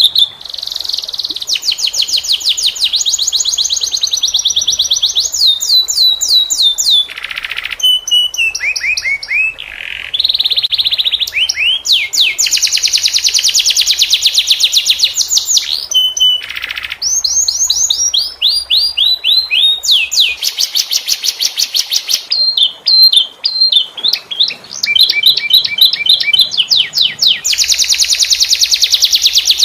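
Domestic canary singing a long, varied song of fast rolling trills and rapidly repeated high notes, switching from one phrase to the next every few seconds with hardly a break.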